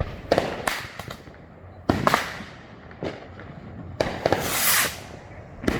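Consumer fireworks going off: a string of sharp bangs and pops at irregular intervals, with a longer hissing crackle between about four and five seconds in.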